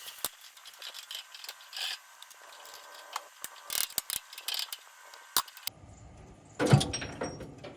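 Metal hand tools and linkage parts clinking and rattling in a string of light clicks and taps, as a dozer's control linkage is worked on. About two-thirds through, the background changes abruptly and a loud thump follows.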